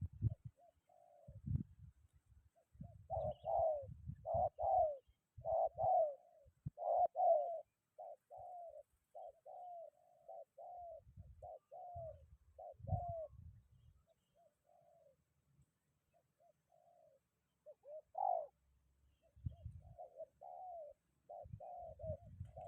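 Spotted doves cooing in a long run of short, repeated notes, with pauses now and then. Irregular low rumbles of wind buffet the microphone underneath.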